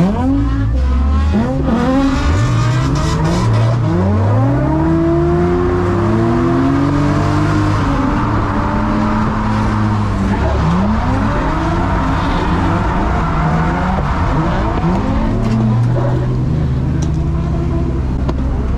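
Several drift cars' engines revving up and down together through a tandem drift run, their pitches rising and falling and overlapping, with tyre noise underneath.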